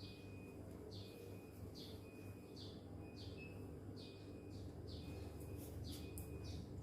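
A small bird chirping over and over: short falling chirps, one or two a second, with short steady notes between them, faintly over a steady low hum.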